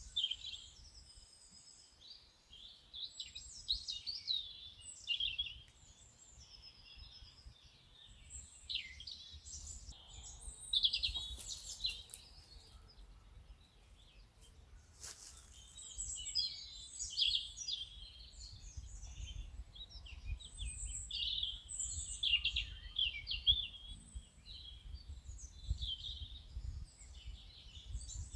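Songbirds singing, many short chirps and trills overlapping without pause, over a faint low rumble.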